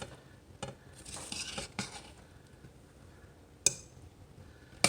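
Dishes and utensils clinking as vegetables are served onto a plate: a few light taps and a brief scrape, then two sharp clinks, the louder one near the end.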